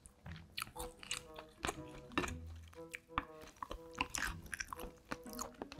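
Close-up eating sounds: a person chewing mouthfuls of kimchi stew and rice, with short clicks of a spoon against the bowl, over soft background music.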